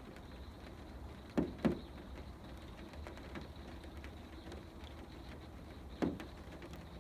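Rain pattering faintly and steadily on an Aliner A-frame camper's roof, with three louder thuds: two close together about a second and a half in, and one near the end.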